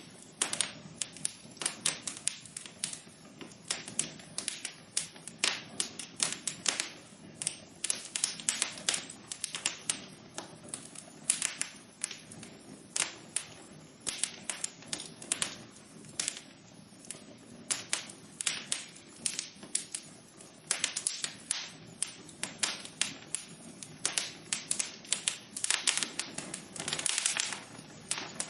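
Wood fire in a fireplace crackling: irregular sharp pops and snaps, several a second, over a soft low rush of burning.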